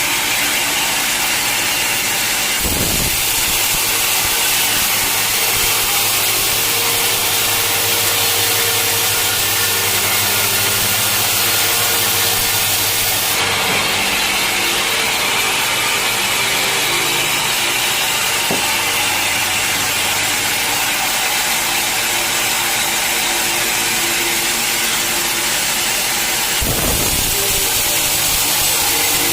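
A sawmill cutting through an old teak log: a steady, loud sawing noise over the hum of the mill's motor, with a short low thump a few seconds in and another near the end.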